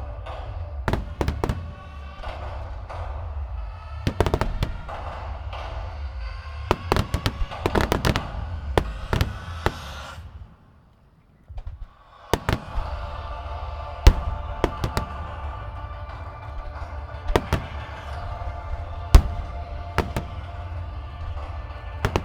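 Fireworks shells bursting in quick succession with many sharp bangs over a steady low rumble, while music plays along with the display. Sound nearly cuts out for about a second and a half around the middle, then bursts and music resume.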